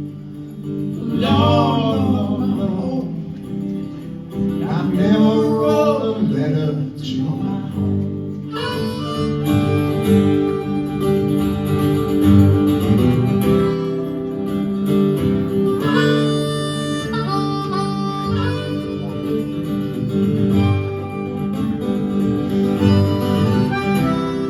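Live folk music: strummed acoustic guitar with harmonica, a voice singing over it for the first several seconds, then a harmonica solo of held, wailing notes over the guitar.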